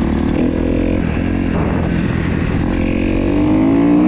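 2015 Kawasaki KX250F's four-stroke single-cylinder engine running under way, its intake valve clearances freshly reset. The revs hold fairly steady, then climb in the last second or so.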